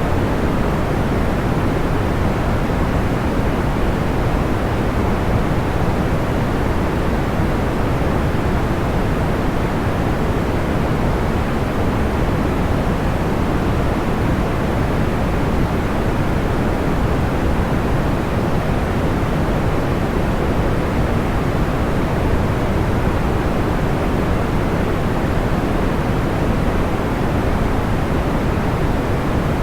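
Steady, unchanging sleep noise, weighted toward the low end like pink or brown noise, with no distinct crackles or pops.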